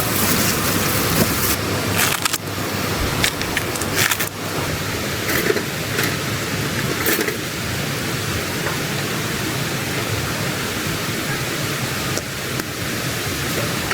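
Mountain stream water rushing steadily over rocks, a constant even hiss, with a few short clicks or knocks in the first half.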